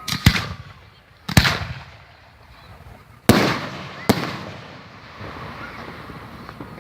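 Fireworks exploding: a quick double bang, then three more sharp bangs spread over the next few seconds. Each bang is followed by a rumbling echo that dies away.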